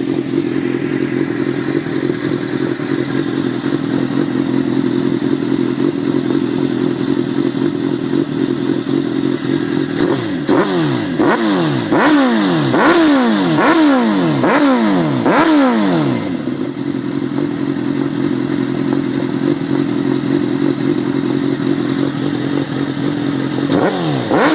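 2002 Suzuki GSX-R750 inline-four idling through a DanMoto carbon fiber GP exhaust on GSX-R1000 titanium headers. About halfway through it is revved in about six quick blips, each rising and falling back, then settles to idle again, with one more blip near the end. The exhaust note is much heavier.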